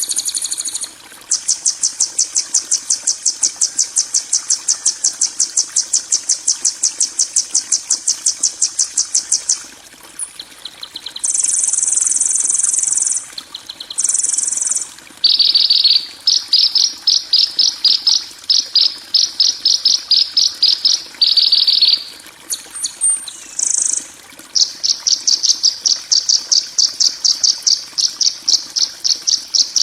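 A 'kasaran' (harsh-tone) masteran recording for tutoring caged songbirds: high-pitched, rapid rattling chirps repeated about five times a second in runs of several seconds, broken by short gaps and a few steady buzzing trills.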